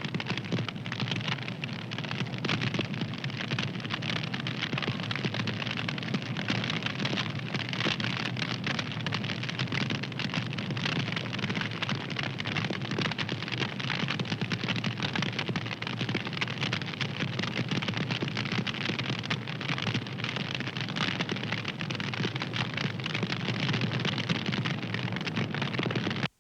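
Wood fire crackling: a steady hiss thick with small pops and snaps.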